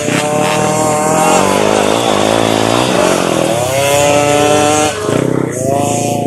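Motocross motorcycle engines revving hard, the pitch climbing and dropping several times as the bikes accelerate and shift. One rise cuts off sharply about five seconds in, and another begins just after.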